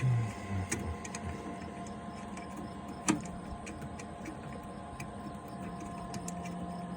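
A steady mechanical hum with a low thump at the start, a single sharp click about three seconds in, and a few faint ticks.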